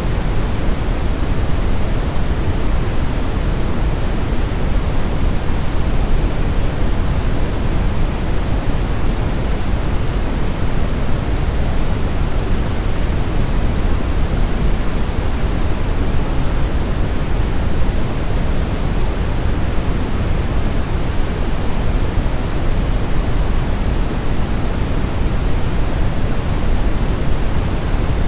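Steady brown noise: an even, unchanging rushing hiss weighted heavily toward the low end, with no events or changes.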